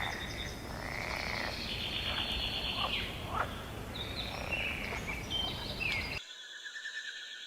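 Animal calls: a run of short croaks, chirps and pulsed trills over a low rumbling background, cutting to a different recording with steady high calls about six seconds in.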